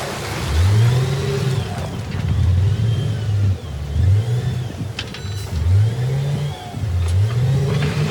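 Diesel engine of heavy earthmoving machinery revving up again and again, its pitch climbing about five times, with a couple of short metallic clanks.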